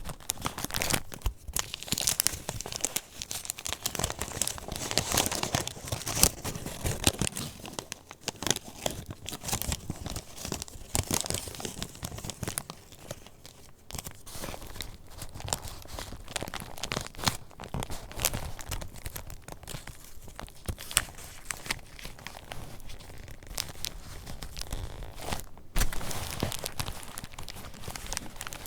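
Paper pages of a handmade junk journal being turned and handled: irregular rustling and crinkling with many small crackles and clicks.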